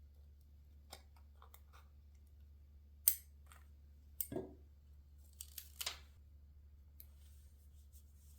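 Scissors snipping and paper being handled: a handful of separate short snips and taps, the sharpest about three seconds in, over a faint steady low hum.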